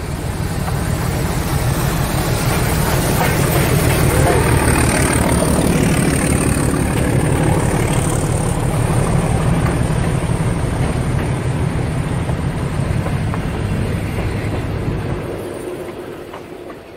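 Hotham Valley steam train's passenger carriages rolling past close by, a steady loud rumble heard from a vehicle driving alongside the line, fading out near the end.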